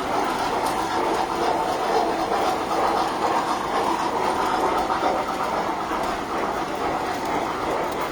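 Tinplate toy trains running on metal track: a steady rattling clatter of wheels and motors.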